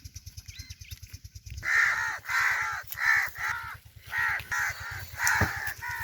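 Crows cawing, a run of harsh calls starting about a second and a half in and repeating about twice a second, over a steady, fast, low pulsing.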